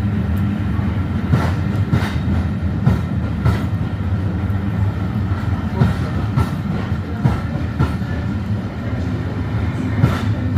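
A Class 67 diesel-hauled Pullman train running through the station: a steady low rumble, with wheels clicking over rail joints at irregular intervals.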